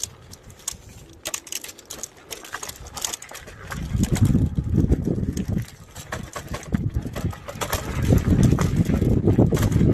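Wind buffeting the microphone of a moving electric scooter, with scattered light clicks and rattles. The rumble is weaker for the first few seconds, then gusts up about four seconds in and grows louder near the end.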